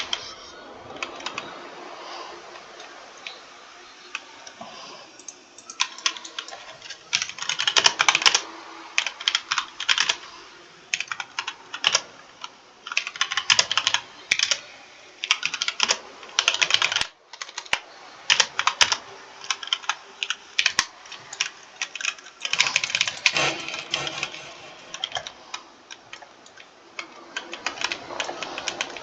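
Typing on a computer keyboard: quick runs of key clicks in irregular bursts with short pauses, lighter in the first few seconds.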